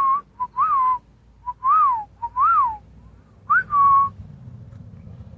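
A person whistling a bird call: five loud whistled phrases, each a short pip followed by a note that rises and falls, the last one rising and then held, to call the birds in for feeding.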